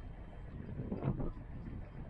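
Wind buffeting the microphone aboard a sailboat, a low rumble that swells briefly about a second in.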